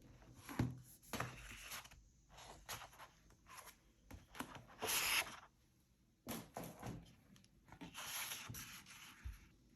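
Paper and craft materials handled at close range: rustling and sliding paper with scattered light taps and clicks, the longest rustle a little past the middle.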